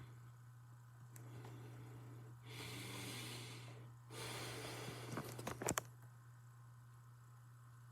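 A person breathing close to the microphone: two long, hissy breaths of about a second and a half each near the middle, followed by a few sharp clicks, over a steady low hum.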